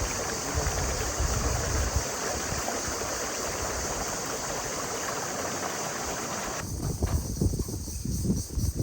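Steady rushing of river water. Near the end it cuts abruptly to low, uneven rumbling and knocking.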